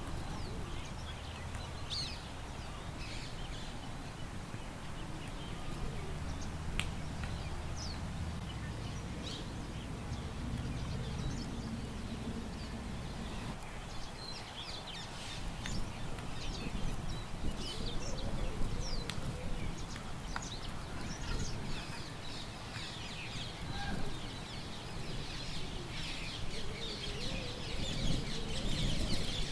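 Small birds chirping in many short calls, busier near the end, over a steady low rumble of wind.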